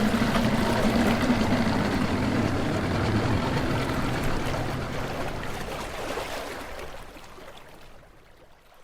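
Motorboat engine running steadily over rushing water, fading out over the last few seconds.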